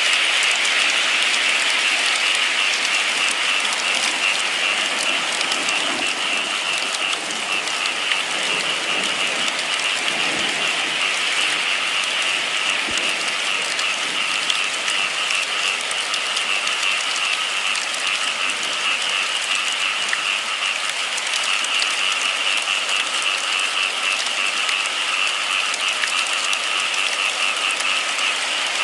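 Steady rain falling, an even hiss full of small drop ticks that keeps on without a break.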